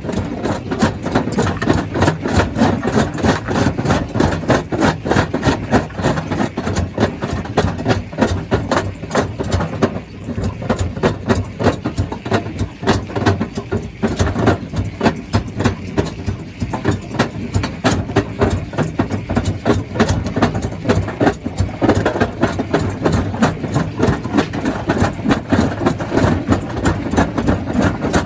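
Stone crusher plant running: a steady heavy machine noise with a fast, even rattle of knocks, a little quieter for several seconds around the middle.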